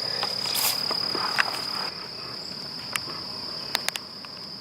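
Insects, crickets or similar, trilling in one steady high-pitched tone. Over it, rustling that stops suddenly about two seconds in, then a few sharp light clicks near the end.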